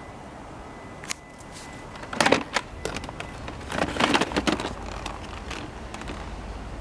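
Plastic clicks and rattles from handling a Sharp cyclone vacuum cleaner, with its motor not running: one sharp click about a second in, then two short clusters of clattering about two and four seconds in.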